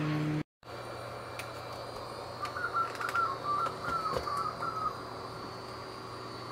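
A bird calls a quick run of short notes about two and a half seconds in, over a steady low hum. A louder sound cuts off abruptly half a second in.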